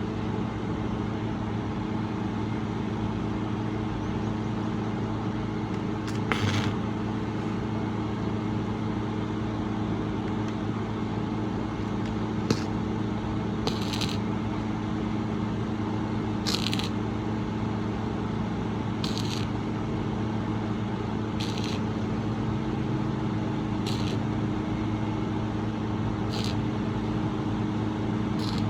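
A steady mechanical hum, with a short hiss that repeats about every two and a half seconds.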